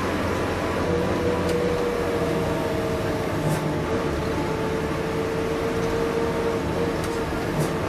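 Inside a moving bus: steady engine drone and road rumble with a steady whine, and a few light clicks or rattles.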